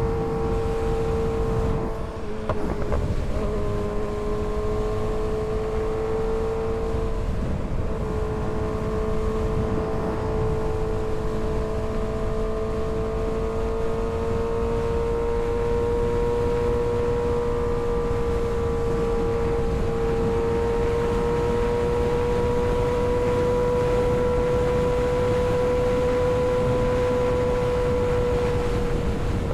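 Kawasaki ZX-6R 636 inline-four engine running at a steady, high, held pitch under way, with wind rushing past. The engine note drops briefly about two seconds in and again a few seconds later, then slowly creeps higher.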